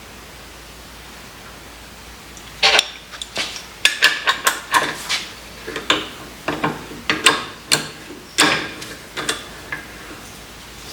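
Steel vise parts and tools clinking and knocking against each other as they are handled, a quick irregular run of sharp metallic clicks, some with a brief ring. It starts a few seconds in and stops near the end.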